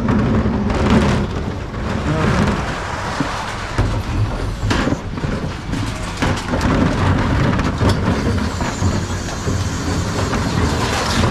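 Mercedes Econic bin lorry running, a steady low rumble with scattered knocks and rattles.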